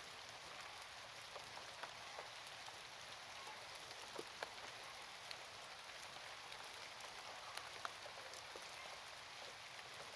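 Faint steady hiss with scattered light ticks and clicks, like rain patter or dripping.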